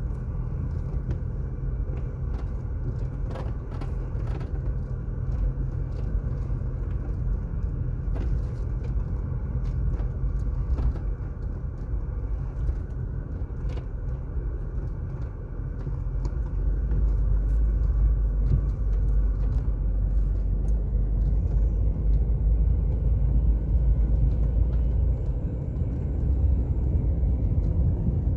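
Car driving on an asphalt road: steady low rumble of tyres and engine, growing louder a little past halfway, with faint scattered ticks.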